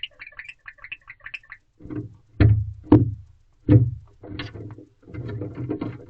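Male barn owl giving a quick run of short, high chirps, then several loud thumps and scuffling about two seconds in and again near the end.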